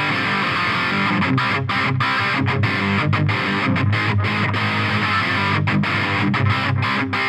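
Electric guitar played through an Eagletone Biyang OTD 100 distortion pedal with a 12AX7 tube, giving a continuous distorted, bright tone with the pedal's high control turned all the way up, so that each attack rings out strongly.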